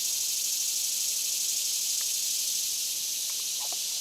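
Steady high-pitched insect chorus drone, with a few faint short chirps near the end.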